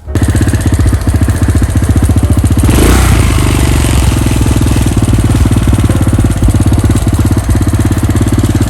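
Single-cylinder 250cc water-cooled quad bike engine running at a steady fast idle, with an even rapid pulse and a brief rush of noise about three seconds in.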